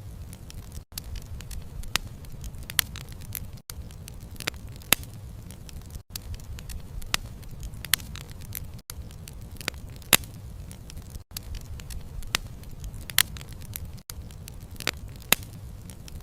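Wood bonfire burning, with a steady low rumble of flame and frequent sharp crackles and pops from the burning wood at irregular intervals. The sound briefly drops out every two to three seconds.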